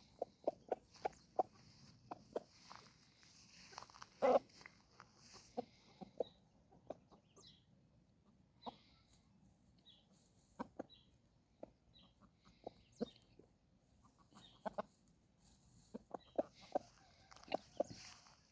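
Game chickens clucking softly in short, scattered runs while foraging, with one louder cluck about four seconds in.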